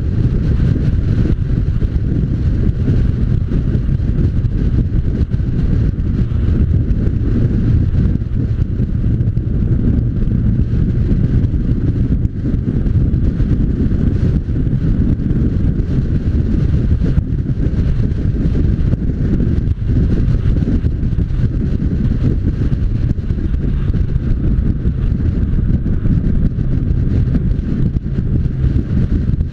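Steady wind rush buffeting the microphone of a moving motorcycle, with the engine running evenly underneath.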